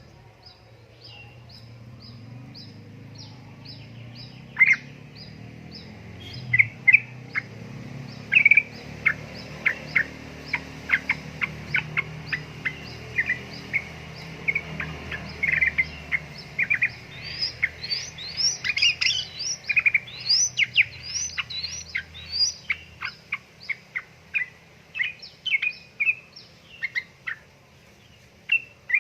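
Yellow-vented bulbul (trucukan) song. It opens with a run of short high notes about four a second, then breaks into a fast, dense string of sharp chirps and twitters.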